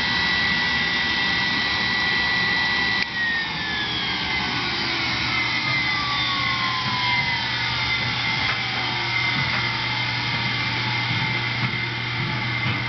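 1929 Hoover Duster model 200 suction cleaner's motor running with a steady whine, then switched off about three seconds in and spinning down, its whine falling slowly in pitch over several seconds.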